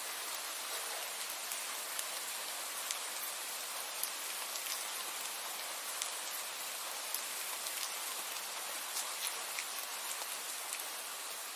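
Steady rain falling, a dense hiss with individual drops ticking sharply on a hard surface here and there.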